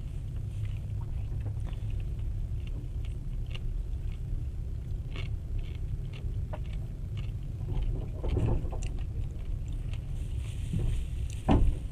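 Passenger train carriage running along the track, heard from inside: a steady low rumble with scattered small clicks and rattles, a brief louder swell about two-thirds of the way through and a sharp knock near the end.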